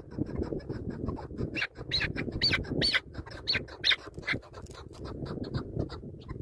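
Chukar partridge calling: a fast run of short, repeated notes, about five a second, loudest in the middle, over a low rustling.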